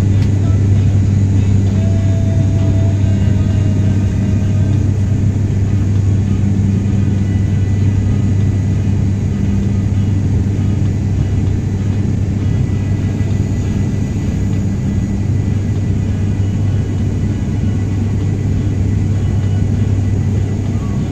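Airliner cabin in flight: a steady, loud engine drone with a low hum, over the rush of air.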